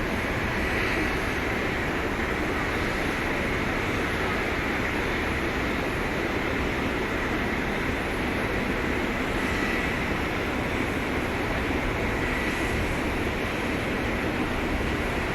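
Jet airliner engines running with a steady, unchanging rumble and a faint high whine.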